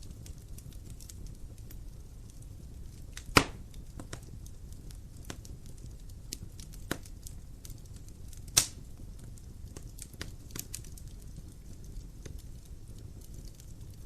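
Wood fire crackling in a fireplace, with a steady low rumble of the flames, many small clicks, and two loud sharp pops, one about three seconds in and another near the middle.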